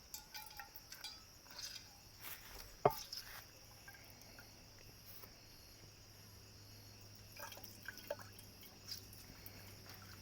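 Scattered small clinks and knocks, like things being handled at a camp table; the sharpest comes about three seconds in. Under them runs a steady, high-pitched insect chorus.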